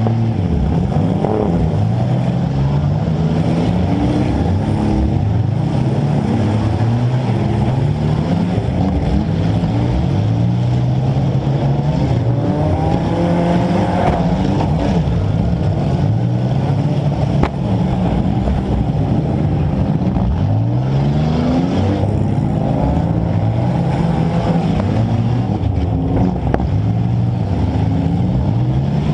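A compact demolition derby car's engine, revving up and falling back again and again as it accelerates and backs around the arena. A few sharp knocks come through, one about halfway through and another near the end.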